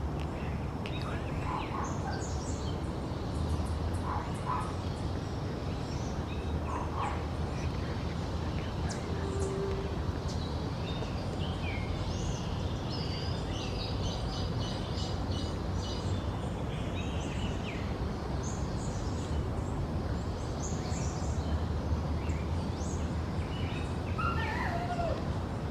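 Scattered calls of several birds, short chirps and a quick repeated series of notes, over a steady low background noise. Near the end comes one call sliding downward in pitch.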